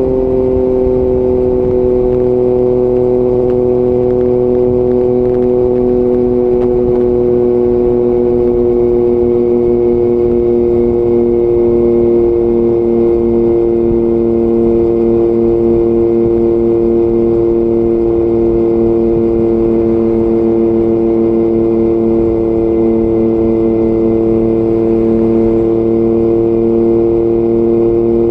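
Yamaha MT-09 inline-three engine through an Akrapovič exhaust, cruising at steady revs. The pitch eases down a little in the first couple of seconds and then holds level.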